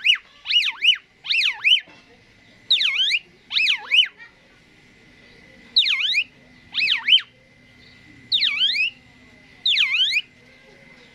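Asian pied starling (jalak suren) giving loud, repeated swooping whistles, each note dipping and rising in pitch, in short runs of two or three with pauses between. A faint steady high tone runs underneath.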